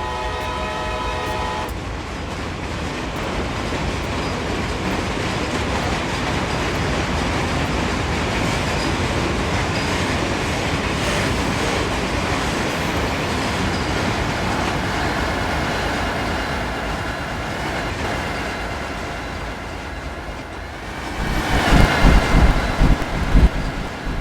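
A freight train's air horn sounds a chord that cuts off about two seconds in. Then comes the steady rumble and rail noise of the moving freight train, with a sudden loud, uneven low rumble near the end.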